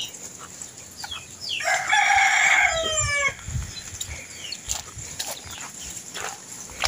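A rooster crowing once, a call of about a second and a half starting near two seconds in and falling in pitch at its end.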